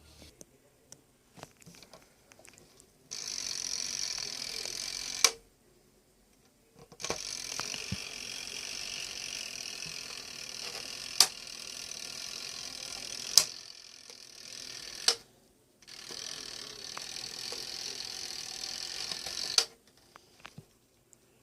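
A steady rushing hiss of moving air, most likely from the ATVIO HOME tower fan running, in three stretches of about 2, 8 and 4 seconds. Each stretch starts and stops abruptly and ends with a sharp click, and there are a couple of extra clicks partway through the long middle stretch.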